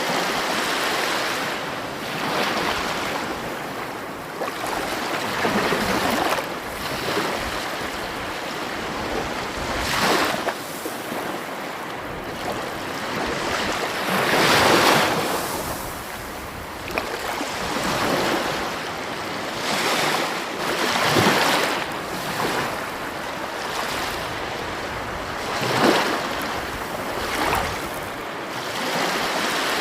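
Sea waves breaking and washing up the shore, swelling and ebbing every few seconds, with the largest surge about halfway through.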